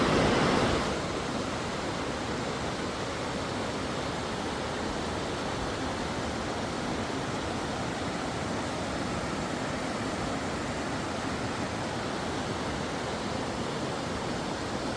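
Steady rushing noise with no distinct tones or beats, a little louder for about the first second, then level.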